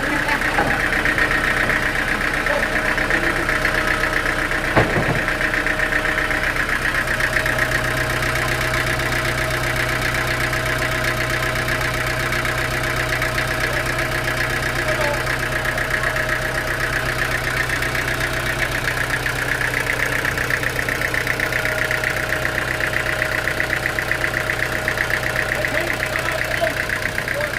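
A machine engine running steadily at idle, with a fine rapid pulsing in its noise and a single sharp knock about five seconds in. A deeper hum joins about seven seconds in and holds steady.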